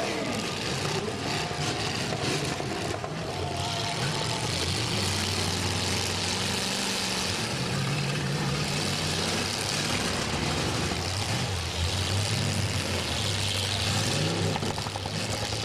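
Eight-cylinder demolition derby car engines running, their pitch rising and falling as they rev, over a steady wash of noise.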